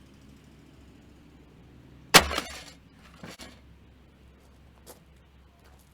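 Sledgehammer smashing an old coffee maker: one loud blow about two seconds in with a short clatter of breaking pieces after it, then two lighter knocks.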